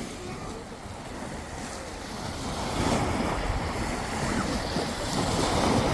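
Small waves washing at the water's edge, with wind on the microphone; the wash grows louder about three seconds in.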